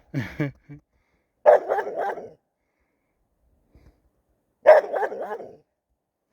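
West Siberian laika barking in short runs of rapid barks a few seconds apart, baying at a spruce where it has treed game.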